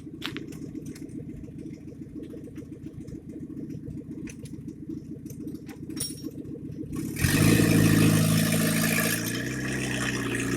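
VAZ engine in a GAZ-69 running with a low rumble, then about seven seconds in it suddenly rises to a loud, steady rev, held for about two seconds before easing off.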